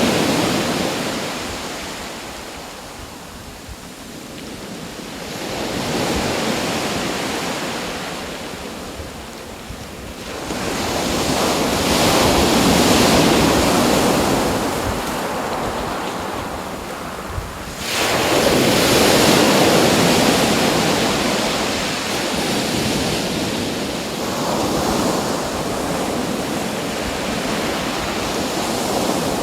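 Ocean waves breaking and washing in one after another, the rushing noise swelling and ebbing every several seconds. The sharpest surge comes a little past halfway.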